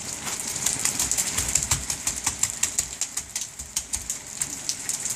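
Rain falling, with many close drops and splashes landing in quick, irregular taps over a steady hiss, and a short low rumble about a second and a half in.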